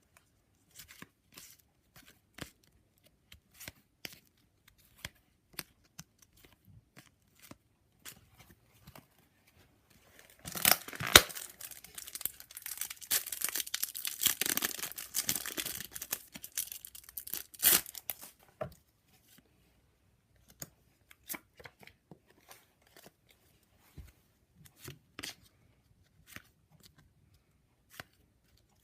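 Trading cards being handled and flicked through with soft scattered clicks; from about ten seconds in, a Match Attax card packet is torn open, its wrapper tearing and crinkling for about seven seconds, with a sharp rip near the start. Then the card handling resumes.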